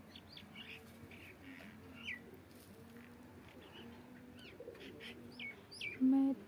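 Faint, scattered short bird chirps sweeping up and down, over soft low repeated notes. A loud voice cuts in near the end.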